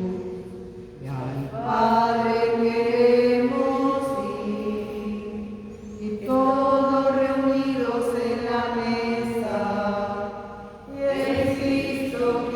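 Voices singing a slow hymn in long held notes, in phrases several seconds long with short breaths between them, heard unamplified as room sound.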